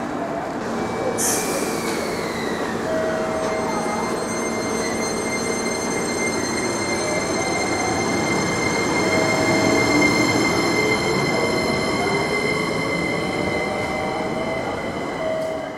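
JR Kyushu 885 series electric limited express train running along the platform close by, with a steady high squeal of several held tones over the rolling noise. A short hiss comes about a second in, and a tone rises slowly in the second half.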